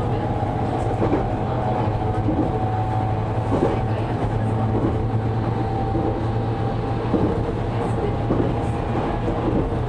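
JR Kyushu 813 series electric multiple unit running at speed, heard inside the train just behind the driver's cab: a steady rumble of wheels on rail with a steady hum and a few faint knocks.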